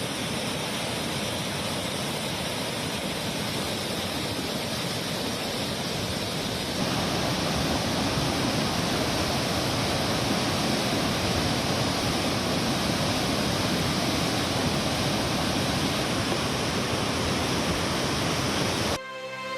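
Swollen, overflowing river water rushing steadily, a dense even noise that gets louder about seven seconds in and cuts off near the end.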